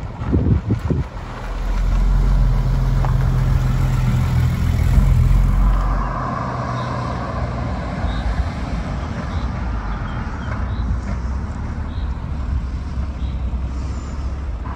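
Mercedes 280 S's carburetted straight-six starting: a brief crank of a few low pulses, catching about a second in, running at a raised idle for several seconds, then dropping about six seconds in to a steady, quieter idle.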